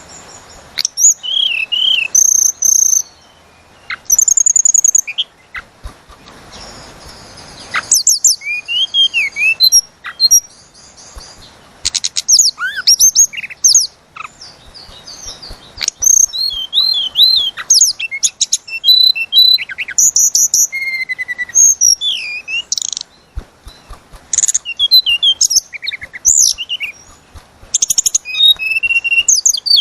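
Tledekan gunung songbird singing in rapid, varied phrases of high whistles, slurred glides and quick trills, broken by short pauses.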